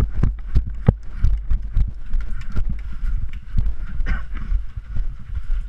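Irregular footsteps and knocks of gear as a player moves on foot, over a steady low rumble of handling on the body-worn microphone.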